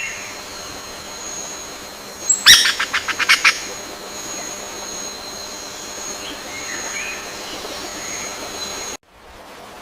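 A bird calling in one quick run of about eight short, sharp chirps, over two steady high thin tones in the background. The sound cuts off abruptly near the end.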